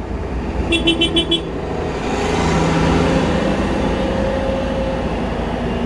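A horn sounding a quick run of short toots about a second in, then the engines of passing parade tractors running steadily, louder from about two seconds in.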